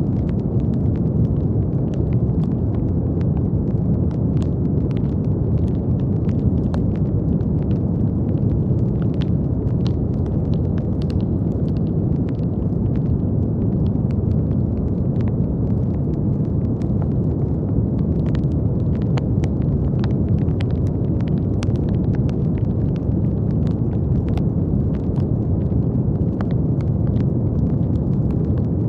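Steady brown noise, a deep, even rumbling hiss with most of its weight in the low end, with faint scattered clicks.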